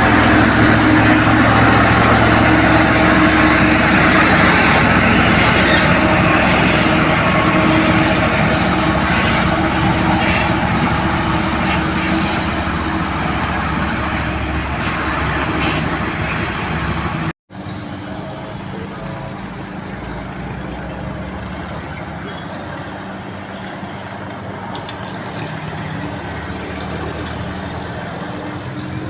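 Truck engine running steadily, slowly fading. An abrupt cut about two-thirds of the way through leaves a quieter engine and road noise.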